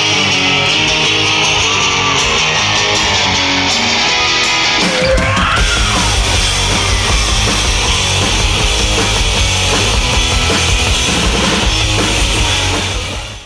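Live rock band playing: electric guitar at first, then bass and drums come in heavily about five seconds in. The music fades out near the end.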